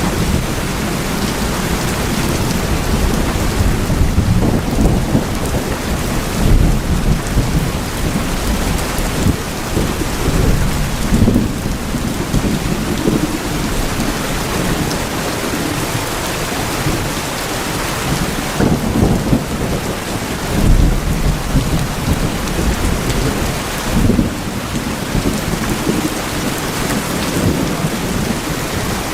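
Steady heavy rain drumming on the metal sheeting of tin houses, with deep thunder rumbling and swelling up several times.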